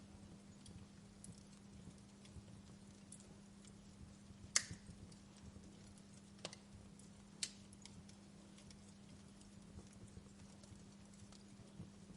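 Campfire burning low: faint crackle with scattered sharp pops of burning wood, three louder ones in the middle, the first the loudest, over a low steady hum.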